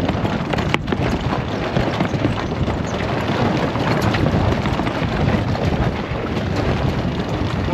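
Strong wind blowing over the microphone aboard a sailboat under sail, with the rush of water along the hull, and one sharp click about a second in.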